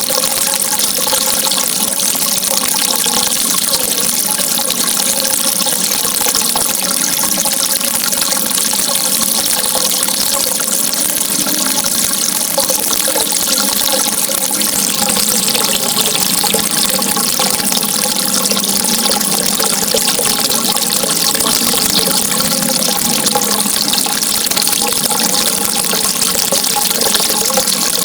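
Running water flowing continuously with an even, unbroken rush and a bubbling undertone.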